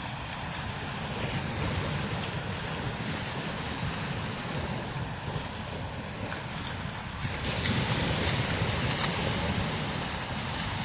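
Strong desert wind blowing over the dunes and buffeting the microphone, with a low rumble under a steady hiss. A stronger, brighter gust sets in about seven seconds in.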